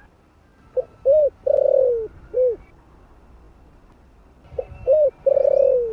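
Spotted dove (cu gáy) singing its cooing song: one full phrase of four low coos, a short note, an arched note, a long falling note and another arched note, then about two seconds later the same phrase starts again near the end.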